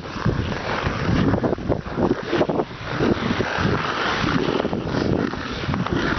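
Wind buffeting the microphone, with ice skate blades scraping and cutting across sea ice.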